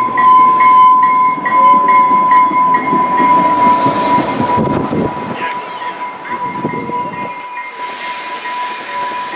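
West Coast Express commuter train in motion: a steady high-pitched squeal over the rumble of the cars, with a fainter ring repeating about three times a second, all fading gradually.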